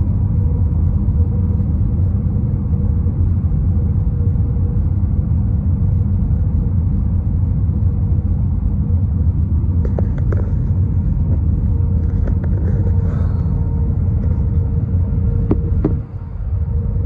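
Airbus A320 cabin noise on approach: a steady low rumble of engines and airflow with a constant hum. A few light clicks come about ten to thirteen seconds in, two sharper ones near the end, then a brief dip in level.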